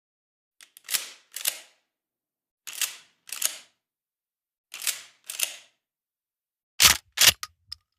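Sharp mechanical clicks in pairs, each pair a click-clack half a second apart, three pairs about two seconds apart. Near the end comes a louder, heavier run of two or three clicks.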